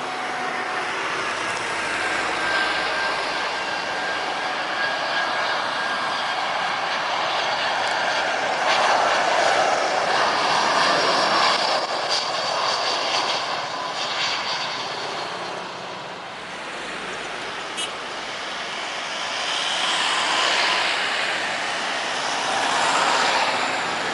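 Batik Air jet airliner passing low on its landing approach: a steady engine whine over a rushing jet noise that builds to its loudest about nine to twelve seconds in, eases off, then swells again near the end.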